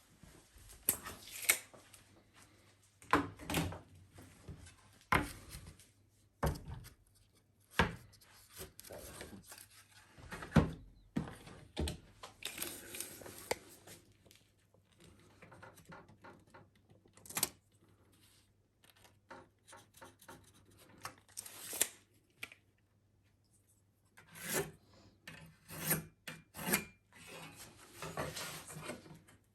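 Hand woodworking on wooden boards: scattered sharp wooden knocks and clacks, with longer stretches of rubbing or scraping against the wood, as with a rasp or sandpaper.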